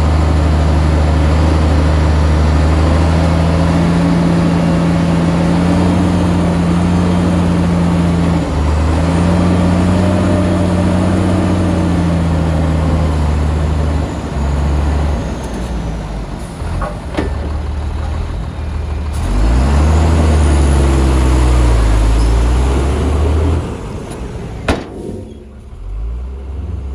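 Shantui bulldozer's diesel engine running hard, its pitch dipping and rising a few times. It eases off past the middle, surges again, then drops back, with a single sharp click near the end.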